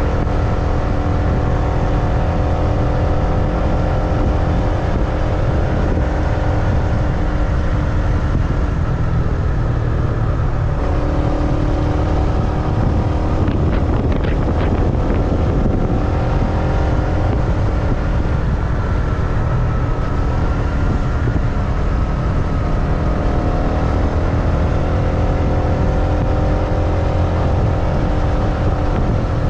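Motorbike engine running steadily under way, with low road rumble. The engine note changes pitch about a third of the way through, and a short cluster of clicks or knocks comes a little past the middle.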